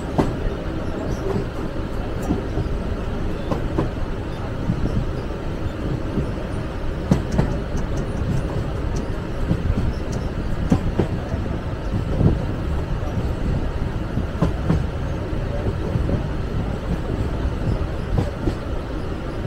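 Mumbai suburban electric train running at speed, heard from on board: a steady rumble of wheels on rails with irregular knocks as the wheels pass over rail joints.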